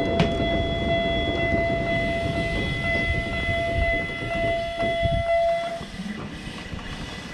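Toyama Chiho Railway 16010-series ALPS EXPRESS electric train rolling slowly into the platform, its running gear rumbling, with a steady high-pitched squeal that stops about six seconds in as the train slows.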